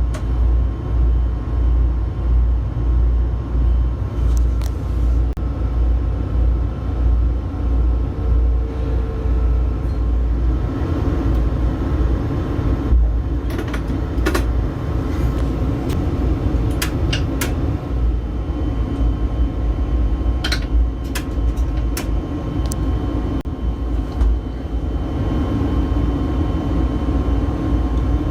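A train's steady low rumble with a pulsing throb underneath and a few sharp clicks.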